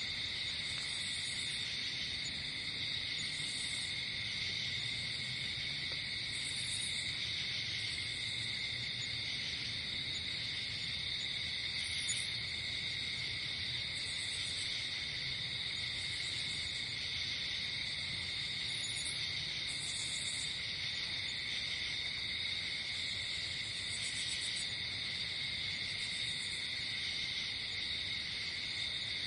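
Night chorus of crickets and other insects: a steady shrill trilling, with short higher chirps repeating every second or two.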